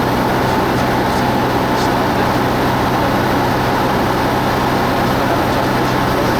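Cessna 172 Skyhawk's piston engine and propeller running with a steady drone.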